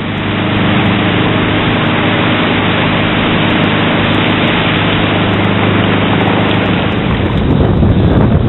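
Ocean surf and wind rushing on the microphone, a steady noise throughout, with a steady low hum underneath that fades out near the end.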